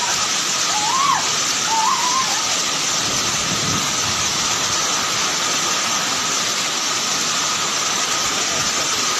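Steady rushing noise of a storm of strong wind and heavy rain, with a couple of short rising-and-falling cries in the first two seconds.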